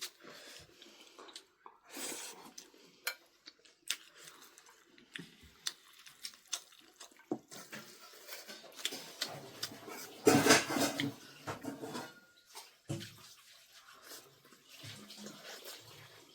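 Dishes and utensils clinking and scraping in scattered short knocks, with one louder noisy stretch about ten seconds in.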